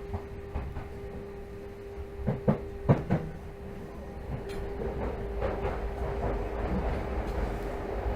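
Tokyo Metro 13000 series train running, heard from inside the car: a steady hum under rolling noise, with a quick cluster of four or five sharp knocks about two and a half to three seconds in as the wheels pass over rail joints. The rolling noise grows louder in the second half.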